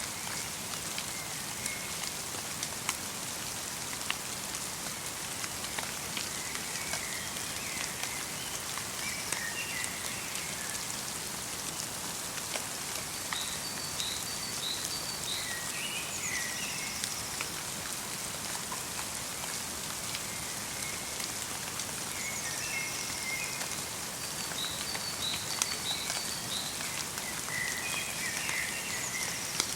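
Light rain falling in a winter forest: a steady patter with many small drop ticks. Small birds call now and then in short groups of high chirps.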